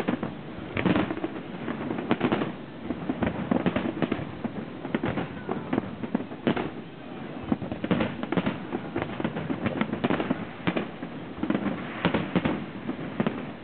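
Aerial fireworks shells bursting in quick, irregular succession: a dense string of bangs with no steady rhythm, several close together.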